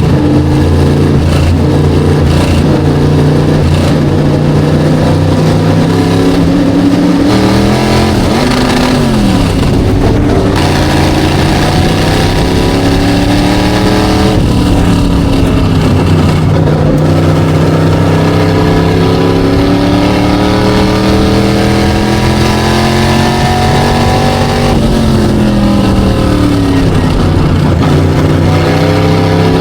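Single race car engine running hard at a constant, very high level. Its pitch climbs slowly under throttle and drops sharply at about 8, 14 and 24 seconds in, then climbs back each time, as the throttle comes off and back on.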